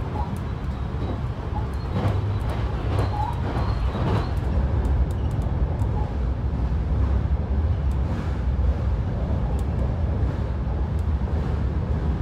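Train running, heard from inside a passenger car: a steady low rumble of wheels on the rails with scattered faint clicks.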